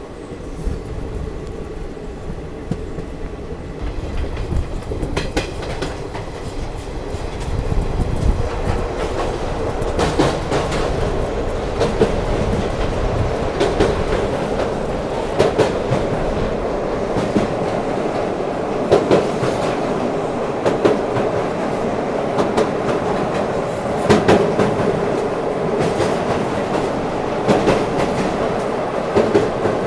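Azad Hind Express passenger coaches running at speed, wheels clickety-clacking over the rail joints, heard from an open coach door. About eight seconds in the run gets louder, with sharper clacks, as the train crosses a river bridge.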